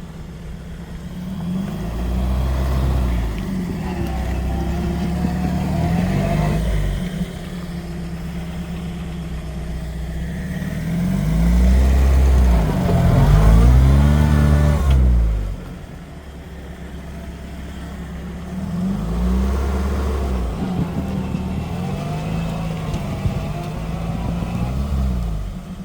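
Off-road vehicle's engine revving hard under load in deep snow, its pitch climbing and falling several times, loudest about halfway through.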